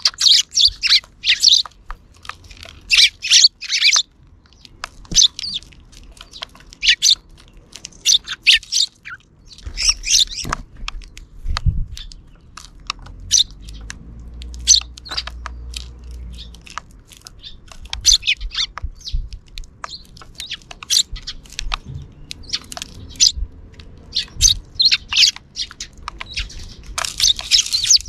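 A flock of sparrows chirping, short high chirps coming in irregular bursts, busiest near the start and the end. A soft low rumble and thump come about ten to twelve seconds in.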